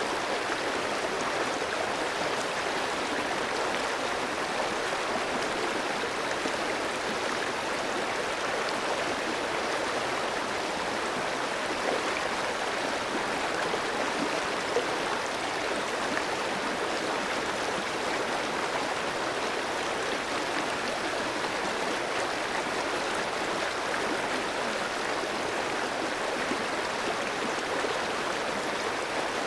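Clear stream flowing over rocks, a steady rush of running water with a few small splashes and gurgles.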